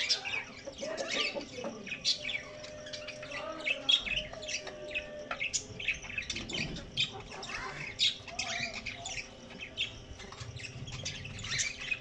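Birds chirping and squawking, many short high calls close together with scattered sharp ticks.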